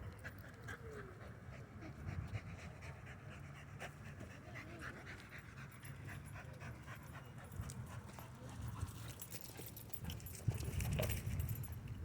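A dog panting in quick, repeated breaths, with a few knocks near the end.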